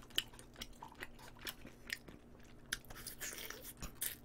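Faint eating sounds of a person chewing braised short ribs (galbijjim), with a scattering of small clicks and wet mouth noises.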